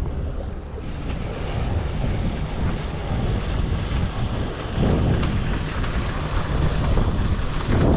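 Wind buffeting the microphone: a steady low rumble that swells in gusts about five seconds in and again near the end.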